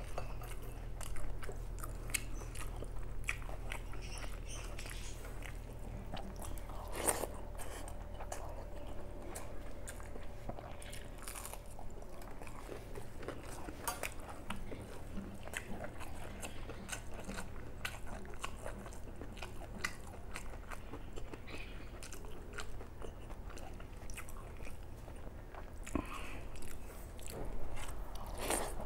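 A person eating close to the microphone, chewing mouthfuls of rice and curry with many quick wet mouth clicks and some crunchy bites, over a steady low hum.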